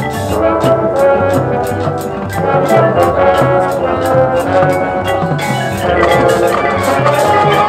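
High school marching band playing: sustained wind and brass chords over a moving bass line, with drum hits keeping a steady beat of about three to four a second.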